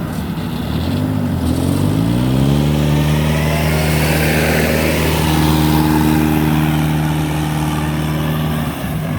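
Rice combine harvester's diesel engine revving up about two seconds in, then running steadily at high revs, easing off slightly shortly before the end.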